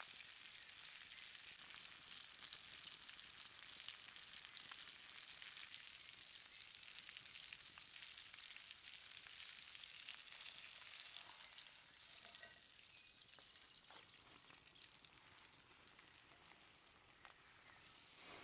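T-bone steak frying, a steady sizzle with small crackles and pops, dying down somewhat in the last few seconds.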